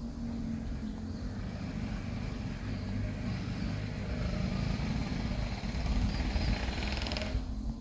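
A motor vehicle's engine running, its noise building over several seconds and then dropping away abruptly near the end.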